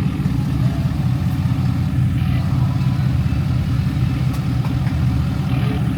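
Truck engine idling steadily, holding one low pitch with no revving.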